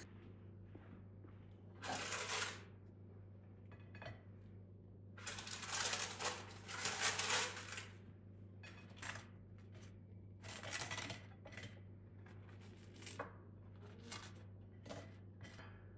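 Irregular rustling and clattering of household items being handled, in short bursts with a longer busy stretch a third of the way in, over a steady low hum.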